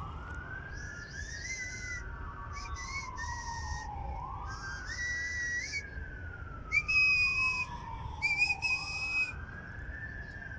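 Emergency-vehicle siren on a slow wail, rising and falling three times, about every four and a half seconds. Short high whistled notes sound over it, loudest about seven seconds in.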